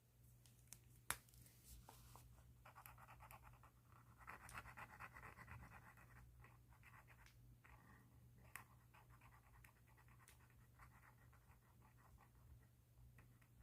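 Faint scratching of a pen tip moving across paper in quick, repeated strokes, with a sharp tap about a second in.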